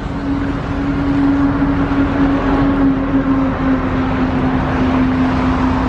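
A small engine running steadily at a constant pitch, with a continuous hiss.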